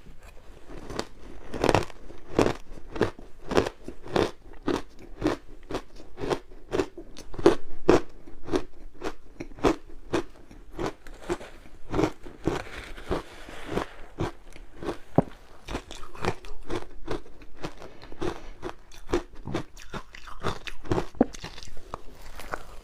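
Close-up crunching and chewing of frozen matcha ice, a steady run of sharp bites about twice a second.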